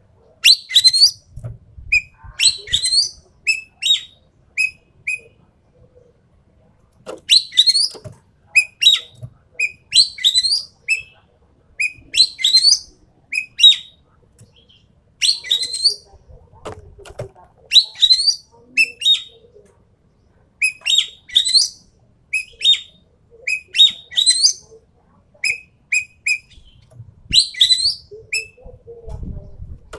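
Ekek keling calling in rapid repeated bursts of sharp, shrill notes: clusters of piercing downward-sweeping calls and short chips, a few clusters every few seconds with brief pauses between them.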